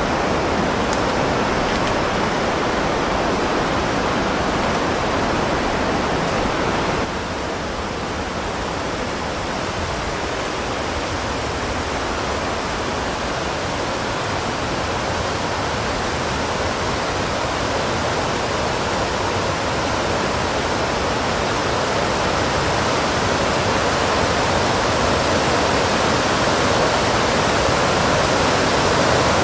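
Steady rushing water, loud and even, like a waterfall or fast stream. It steps down a little about seven seconds in, then slowly builds again.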